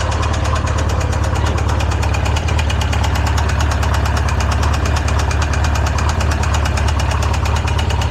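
Polaris RZR engine idling steadily with a fast, even ticking, running on Lucas oil after its rod bearing seized to the crank from lost oil pressure.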